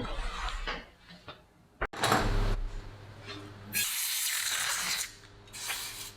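Small workbench handling noises from hand tools and materials: a sharp click about two seconds in, then two bursts of hiss.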